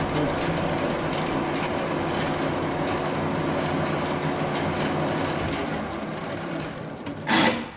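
LeBlond Regal engine lathe's geared headstock and spindle running under power, a steady mechanical clatter with a steady whine. It eases off over the last couple of seconds, and a short, loud burst near the end comes as it is stopped with its electric brake.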